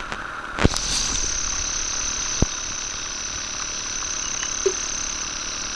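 Summer insects buzzing in a steady high-pitched drone that cuts in with a click under a second in, over a lower steady hiss. A single low knock comes about two and a half seconds in.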